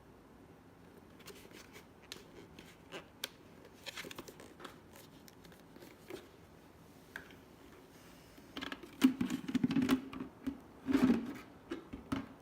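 Plastic parts of a vacuum cleaner being handled: scattered light clicks and knocks, then a louder stretch of clattering and rubbing about three-quarters of the way through.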